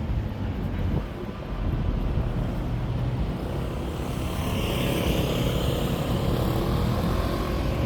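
Street traffic: road vehicles running past with a steady low rumble, and one louder vehicle passing from about halfway through, its tyre and engine noise swelling and then easing.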